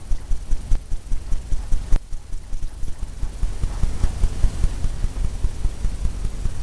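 Brush tapping wet oil paint onto a stretched canvas: quick, even, dull thumps, about four or five a second.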